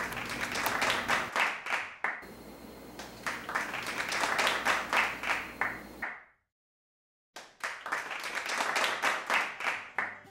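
Hands clapping in quick, uneven runs, broken by a dead-silent gap of about a second just past the middle.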